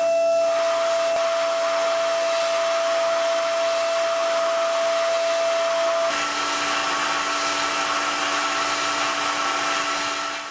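DATRON M8Cube CNC mill's 3.0 kW high-frequency spindle running at high speed while milling an aluminium housing: a steady whine over a noise of cutting. The pitch of the whine shifts about six seconds in, and the sound cuts off abruptly at the very end.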